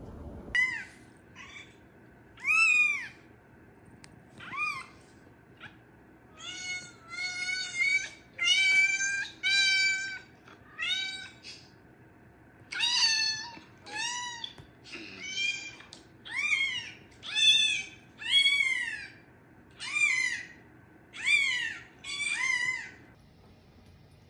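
A cat meowing over and over, about twenty short calls that each rise and fall in pitch, stopping about a second before the end.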